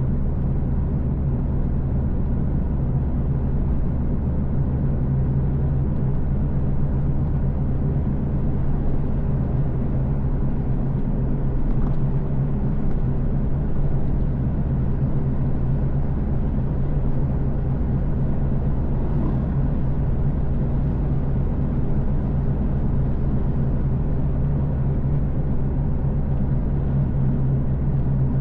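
Car driving at a steady speed: engine and road noise as a steady low rumble.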